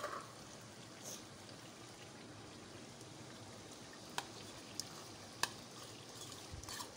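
Faint, steady sizzle of chicken browning in oil in a pot while a thick yogurt, onion and garam masala mixture is poured in, with a few sharp ticks scattered through.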